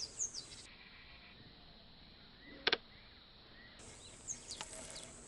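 Faint ambience with scattered short bird chirps and one sharp click about two and a half seconds in.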